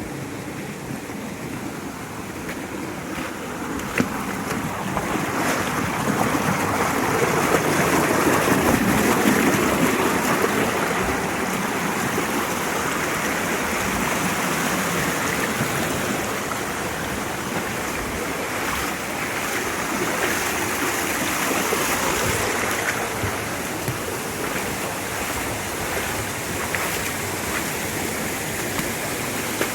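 Mountain stream water rushing, a steady noise that swells louder for a few seconds about a third of the way in. There is a single sharp knock about four seconds in.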